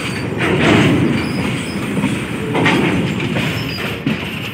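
Freight train of open-top box wagons rolling past close by, with continuous wheel-on-rail noise that swells briefly twice as wheel sets pass.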